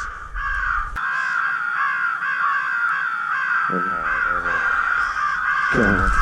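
Crow calls cawing in a dense, continuous, overlapping chorus without a break.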